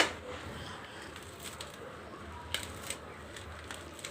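A sharp click at the very start, then a few faint ticks and light rustling.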